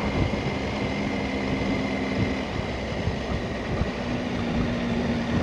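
Motorcycle engine running while under way, with a steady rush of wind noise. The engine note drops out briefly in the middle and comes back a little higher.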